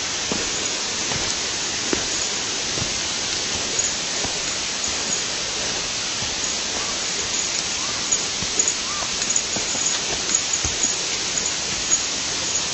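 Steady rush of flowing stream water, with faint scattered clicks and a few faint short chirps over it.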